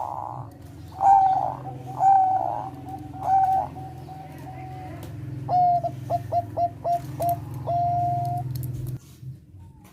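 Zebra dove of the Thai 'perkutut bangkok' song strain cooing: a few loud coos, a drawn-out note, then a quick run of about six short notes ending in one long held note. The song stops about a second before the end, over a steady low hum.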